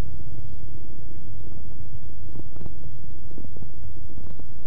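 Cessna 172's piston engine running, a steady low rumble heard inside the cabin, with a few faint clicks over it.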